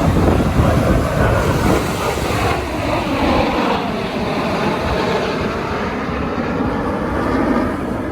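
Aircraft engine noise from a plane flying past, a steady loud rush with slowly sliding tones running through it.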